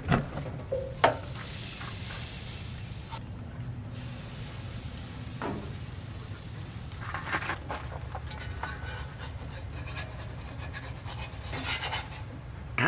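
Butter sizzling in a frying pan, with scattered knocks and clinks of a utensil against the pan. The sharpest knock comes about a second in.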